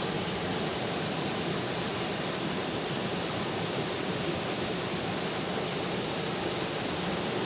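River water flowing: a steady, unbroken rush with a bright hiss.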